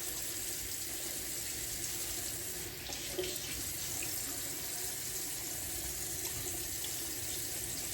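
Tap water running in a steady stream, an even hiss.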